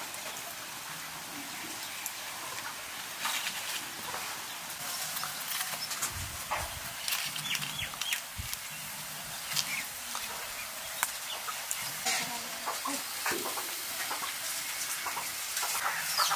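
Chickens clucking now and then over a steady hiss, with scattered short clicks.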